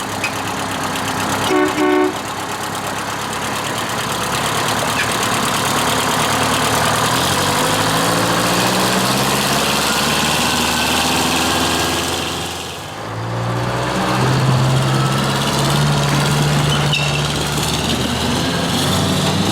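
Semi truck's horn gives a short blast about a second and a half in. The truck's diesel engine then pulls away with its revs climbing, drops off at a gear change about 13 seconds in, and climbs again in the next gear.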